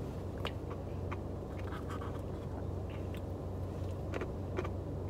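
A spoon scraping and clicking in a Blizzard ice-cream cup with soft eating sounds, a dozen or so small scattered clicks, over a steady low hum.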